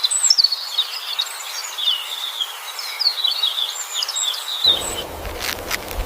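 Small songbird chirping, a run of quick high chirps and short trills. Near the end a few sharp clicks join in.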